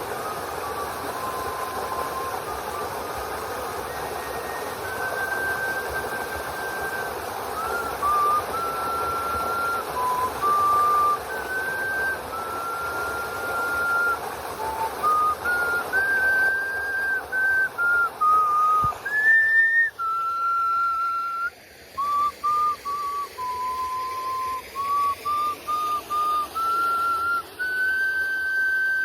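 Nose flute playing a slow melody of pure, whistle-like held notes that step up and down, over the steady rush of a waterfall that falls away about two-thirds of the way through.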